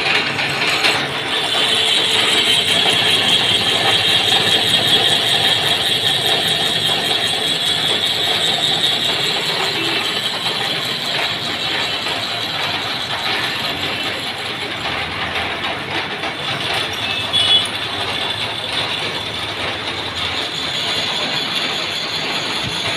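A machine's mechanism running steadily with a dense, continuous mechanical rattle, with a brief louder click about two-thirds of the way through.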